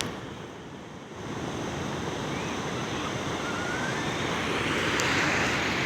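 Ocean surf washing on the beach, a steady rush that dips briefly near the start and then swells louder through the second half.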